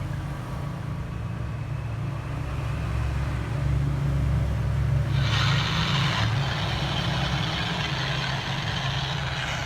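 Steady low mechanical hum, like an engine running. A loud hiss comes in about five seconds in and breaks off briefly a second later.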